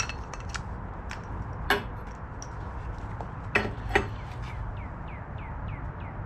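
Metal tools clinking and knocking while working on a car, with three louder metallic knocks. Near the end comes a run of short falling chirps.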